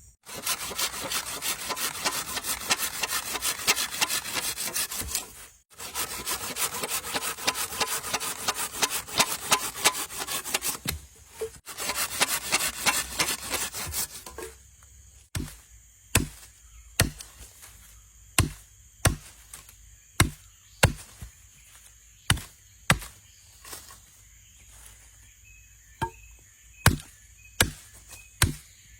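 Wood being sawn by hand in fast, rasping strokes for the first half. Then it is chopped with a blade in single sharp blows, about one to two a second.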